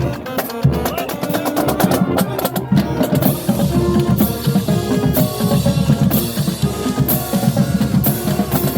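Marching band playing, led by a drumline of snare and bass drums with dense rhythmic hits. From about three seconds in, crash cymbals strike roughly once a second.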